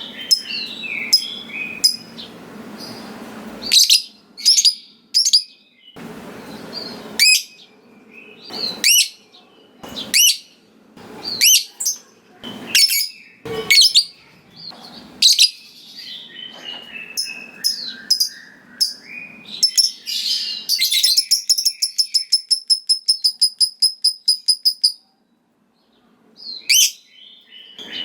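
Lovebird calling with sharp, high-pitched chirps, then a long fast chattering trill of about five notes a second (the 'ngekek panjang'), which breaks off suddenly before more chirps.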